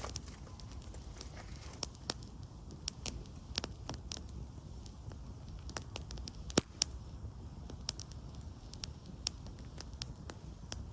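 Wood campfire crackling: irregular sharp pops and snaps, a few a second, over a low steady rumble, with one louder pop a little past halfway.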